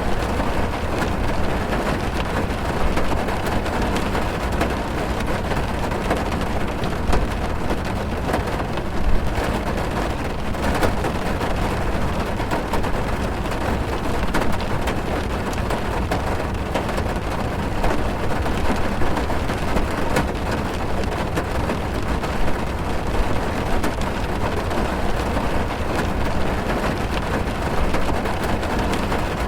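Heavy rain falling on a car's roof and windows, heard from inside the car: a steady, dense patter of drops over a low, even rumble.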